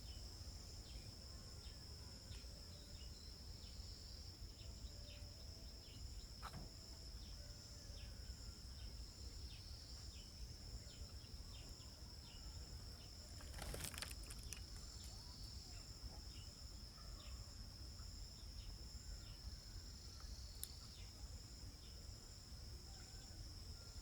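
Faint, steady high-pitched insect chorus like crickets, with scattered short chirps over a low rumble and a brief knock about halfway through.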